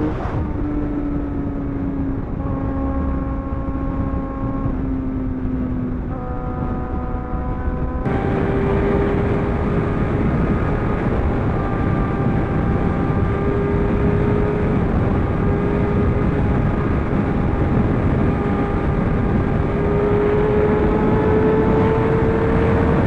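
Sport motorcycle running at highway speed, its engine note over a heavy rush of wind and road noise. The engine note sinks slowly for the first six seconds; about eight seconds in the sound changes abruptly and the note then climbs slowly and steadily.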